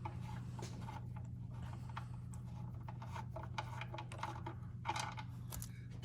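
Scattered light clicks, taps and rattles of hand tools and parts being worked around the truck's floor shifter, with a brief flurry about five seconds in, over a steady low hum.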